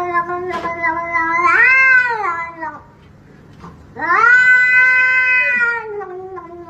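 A cat yowling in two long, drawn-out calls. The first swells up and back down in pitch before it ends, and the second starts about four seconds in and slowly slides down in pitch.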